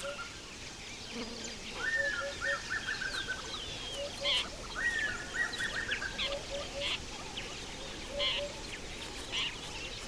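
Several wild birds calling over a faint outdoor background. Twice, about two and five seconds in, a call rises and breaks into a quick chattering run of notes. Short low double notes repeat all through, with scattered higher chirps.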